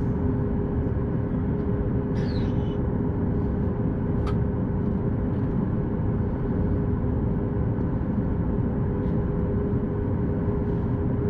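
Cabin noise inside a Boeing 737 MAX 8 taxiing after landing: a steady low rumble with a steady hum from its CFM LEAP-1B engines at idle. A short falling squeak comes about two seconds in and a single click about four seconds in.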